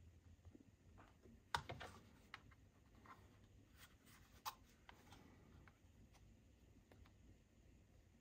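Scattered light clicks and taps from small plastic accessories being handled and unpacked, the sharpest about one and a half seconds in followed by a quick run of smaller ones, and another a few seconds later.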